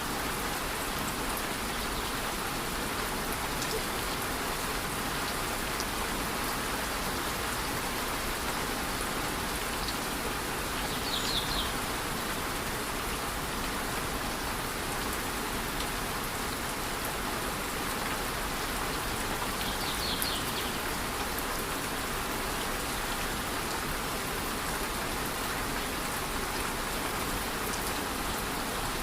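Steady, even rush of a rainforest waterfall in light rain. Two brief clusters of high chirps, about a third and two-thirds of the way through.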